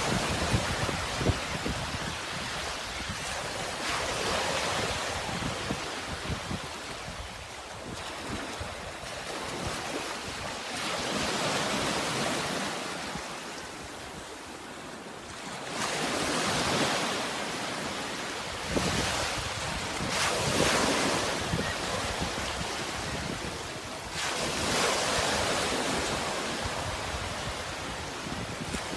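Sea waves washing in, swelling and ebbing in slow surges about every four seconds, with wind rumbling on the microphone.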